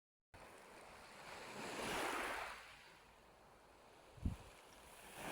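Gentle sea waves washing in, one wave's hiss swelling and fading about two seconds in. A brief low thump a little after four seconds, like wind buffeting the microphone.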